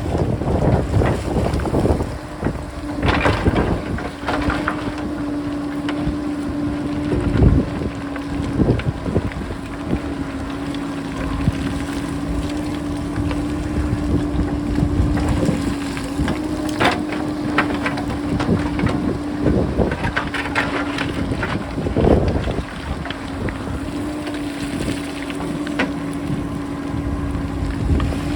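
JCB backhoe loader's diesel engine running at a steady pitch, with irregular clattering knocks of rock being dug out and rolling down the slope. Wind buffets the microphone.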